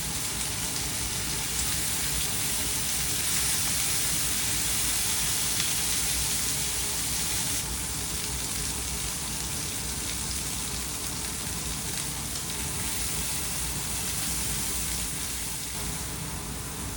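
Food frying in a hot oiled pan, a steady sizzle.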